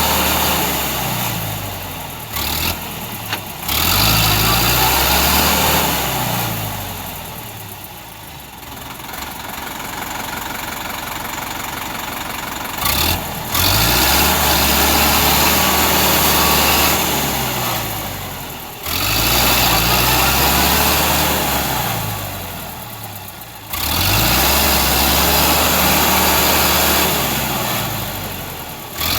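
Tractor engine working as it struggles in deep mud, its pitch rising and falling over and over. The level fades away and then jumps back up suddenly several times.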